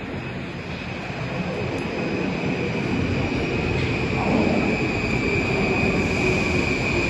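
Moskva-2024 metro train approaching along the track, its running noise growing steadily louder, with a steady high whine over the rumble.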